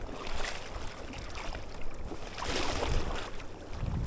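River water running with wind buffeting the microphone, and a brief rush of splashing water about two and a half seconds in.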